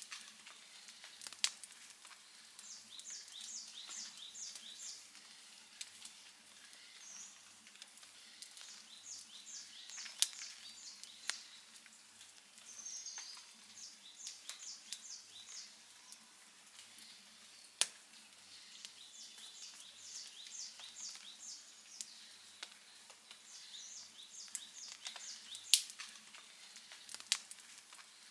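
Wood fire crackling softly, with a few sharp pops, the loudest near the end. Behind it, high chirping comes again and again in short rhythmic runs of about five strokes.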